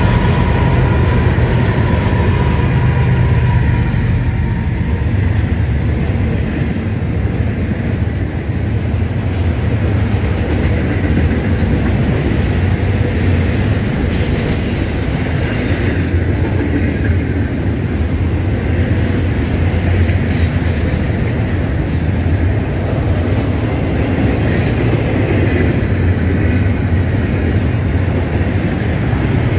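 Double-stack intermodal freight train rolling past close by: a steady, loud rumble of steel wheels on rail with the clatter of the container well cars, after the last diesel locomotives' engine sound fades in the first few seconds. Brief high wheel squeals come through about six seconds in and again around fifteen seconds in.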